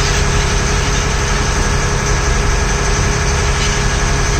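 Ferry launch's engine running steadily, a constant low drone with steady humming tones.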